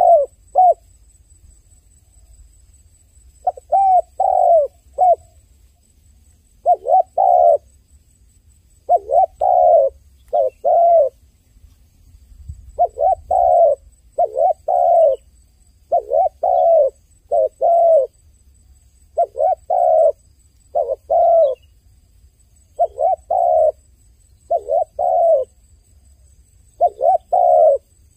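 A dove cooing: short coos given in pairs, the pairs repeating every second or two, with a pause of about three seconds near the start.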